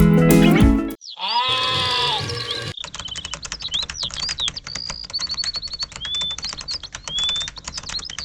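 Music stops abruptly about a second in. A single animal bleat follows, then high, short chirping whistles over fast, dense clicking.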